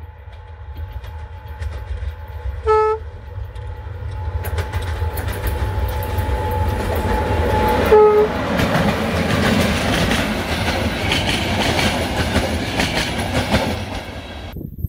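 Electric locomotive hauling passenger coaches approaches and passes at speed, sounding two short horn blasts, one about three seconds in and one as it draws level. The rolling noise swells into a loud rush, with wheels clattering over rail joints as the coaches go by.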